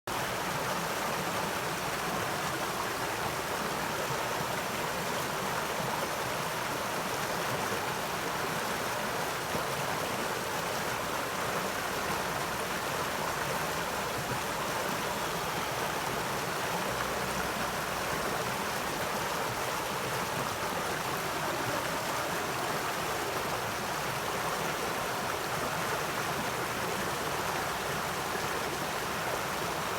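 A forest stream flowing over rocks: a steady rush of running water with no breaks.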